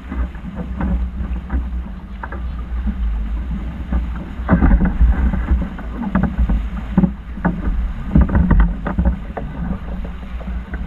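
Wind rumbling on the microphone over water splashing and slapping against a sailing yacht's hull, with many irregular knocks that crowd together from about four seconds in.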